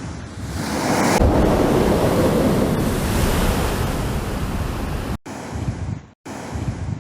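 Sea waves surging and breaking against rocks, swelling up about a second in, with wind buffeting the microphone. The sound breaks off abruptly twice near the end.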